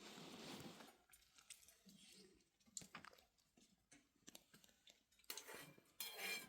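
Faint rustling and scattered small clicks, with two short louder rustles near the end.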